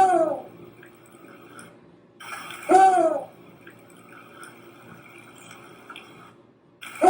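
An animal calling three times, a few seconds apart: each call is short and pitched, rising then falling, over faint steady background hiss.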